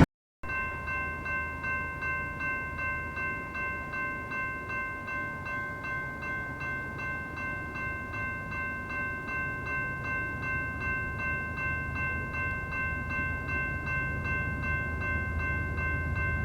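Railroad grade-crossing bell ringing steadily, about two strokes a second, over the low rumble of an approaching freight train that grows louder near the end.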